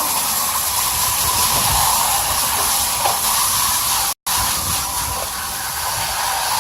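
Garden hose spraying water through an air-conditioner condenser coil to rinse out packed cottonwood, a steady hiss that cuts out for a moment about four seconds in.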